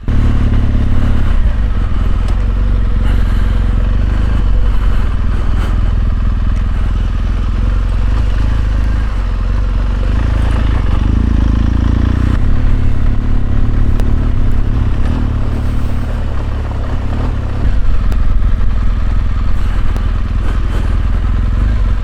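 A BMW R1200GS Adventure's boxer twin engine running as the motorcycle rides along, with wind and road noise. The engine note shifts a couple of times and gets louder about three-quarters of the way through.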